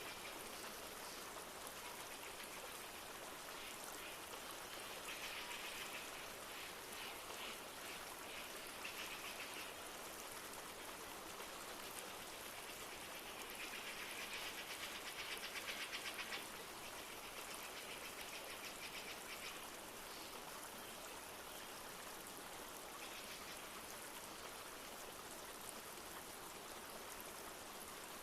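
Steady rush of a flowing stream with light rain falling. A rapid, high trilling call comes and goes several times over it, loudest about halfway through.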